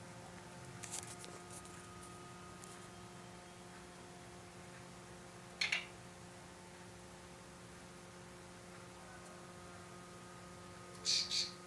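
A steady electrical hum made of a few fixed tones, broken by short clicks: a light one about a second in, a sharper one midway, and a louder double click near the end.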